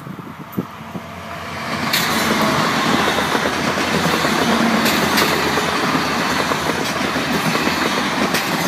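Regional passenger train passing close by at speed: wheel and rail noise with a rush of air builds over the first two seconds, then holds steady, with sharp clicks of the wheels on the rails.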